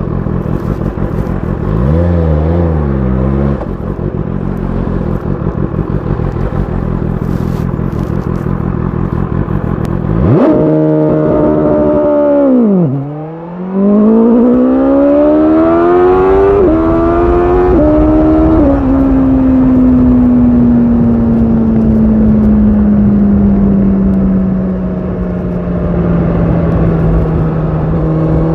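BMW S1000 RR's inline-four engine through an Akrapovic exhaust: low-rev running at first, then about ten seconds in a sharp rev that falls away. It then accelerates hard with rising pitch broken by sudden drops at the upshifts, and settles to steady revs that slowly ease off and climb again near the end.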